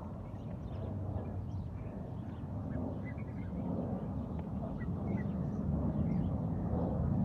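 Short, faint bird chirps scattered over a steady low rumble that slowly grows louder.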